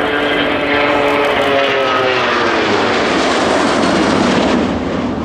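Boeing 757 jet airliner flying past loud and low. The engine whine slides steadily down in pitch as it passes, over a broad roar, and the sound begins to fade near the end.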